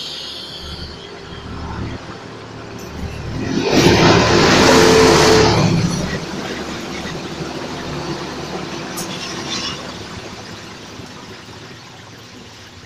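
ALn 663 diesel railcar running out of a tunnel and passing close by. Engine and wheels on the rails build to a loud peak about four seconds in, then fade as it moves away.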